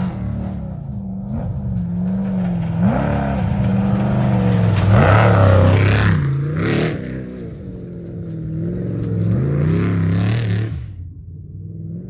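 Off-road race truck engine revving hard and changing pitch as it approaches and passes, loudest about halfway through, then another rise near the end, with gravel and dirt noise from the tyres.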